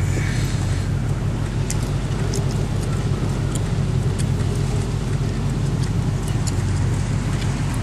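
2000 Ford Explorer's 5.0-litre V8 running at a steady cruise, heard with road noise from inside the cabin as a constant low drone.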